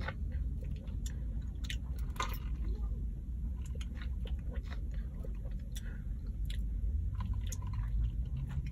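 Close mouth sounds of a person chewing and swallowing, with scattered small sharp clicks, over a steady low hum. Near the end, a sip through a straw.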